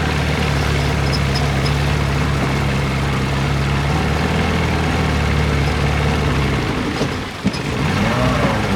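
75 hp Evinrude Starflight two-stroke V4 outboard running steadily, with wind and water noise. About seven seconds in its sound briefly sags, with a single click, then picks up again.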